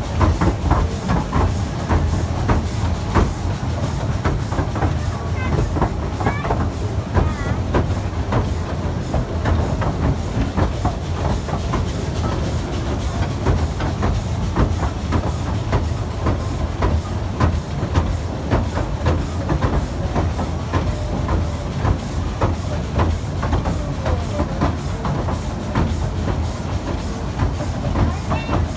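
Amusement-park train running on its track: a steady low rumble with a continuous rhythm of rapid clicks from the wheels on the rails.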